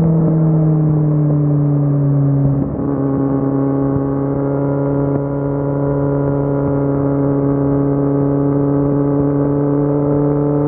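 Kawasaki Z750 inline-four motorcycle engine running under way, its note slowly falling. About two and a half seconds in the pitch drops abruptly, as at a gear change, then it runs on steadily.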